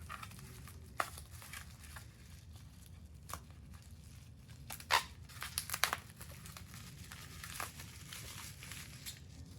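Bubble wrap and tissue paper being peeled, torn and crinkled by hand while unwrapping a small figurine: irregular crackles and rustles, with the sharpest cluster about halfway through.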